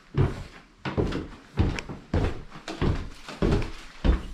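Footsteps walking at an even pace indoors, a dull thump about every 0.6 s.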